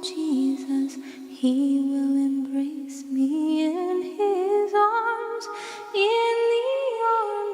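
Unaccompanied voices humming a slow hymn tune in harmony, holding notes and moving in steps, with no words.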